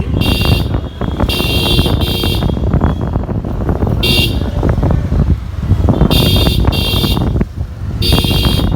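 Road traffic with a steady engine and road rumble, and short high-pitched horn beeps sounding about seven times, some in quick pairs.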